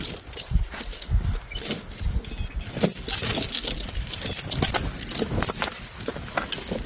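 Steel tire chain being worked by hand over a loader's rear tire, its links clinking and rattling irregularly as they are pulled and shifted.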